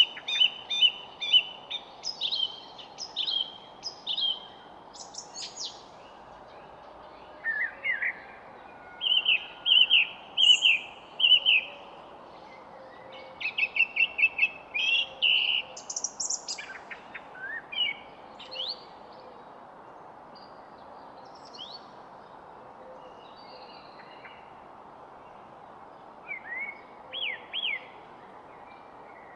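Several songbirds singing in short bursts of chirps and trills, busiest through the first two-thirds, then sparse until a few more phrases near the end, over a steady outdoor background hiss.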